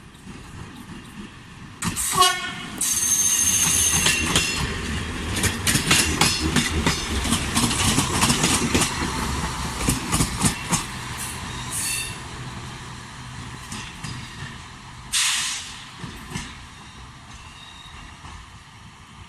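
A train passing close by starts suddenly about two seconds in. Its wheels clatter over the rail joints in a dense run of clicks and rattles, with a high thin squeal near the start. The sound then fades, with a short loud burst of noise near the end.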